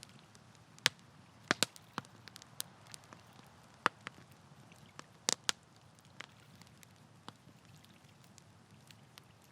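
Wood campfire crackling, with irregular sharp pops and snaps over a faint low hiss. The pops come thick for the first few seconds, then thin out to a few scattered snaps.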